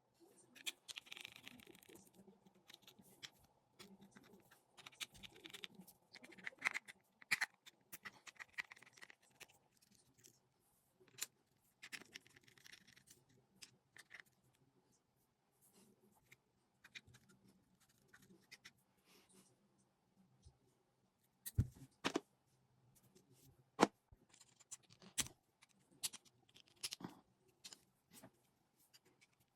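Small parts and tools being handled while a fishing reel is worked on: scattered light clicks, short scrapes and rustling, with a few sharper clicks about two-thirds of the way through.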